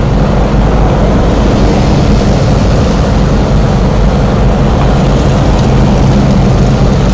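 A large engine running steadily and loudly, a low hum under a rough wash of noise.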